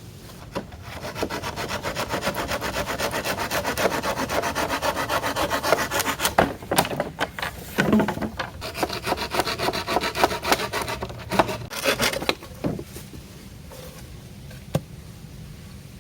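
Hand saw cutting wood in quick, even back-and-forth strokes, in two long runs with a few knocks and a short pause between them, quieter near the end.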